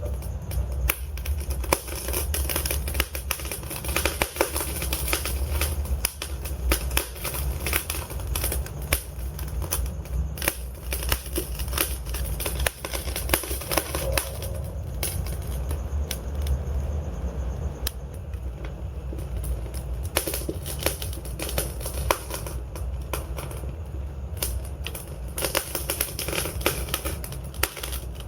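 Wood fire burning in a fireplace, crackling and popping irregularly and often, over a steady low rumble.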